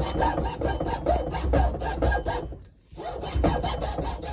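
Hand saw cutting into a pine wood block in rapid back-and-forth strokes, stopping briefly just past halfway and then starting again.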